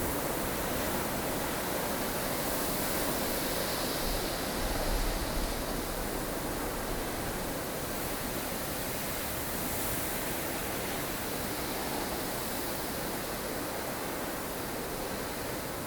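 Strong wind of a blustery snowstorm blowing steadily, with gusts swelling and easing, including a low rumbling gust about five seconds in.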